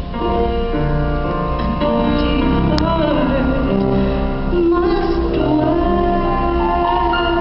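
Live band music with a woman singing long held notes over the accompaniment, and a single sharp click nearly three seconds in.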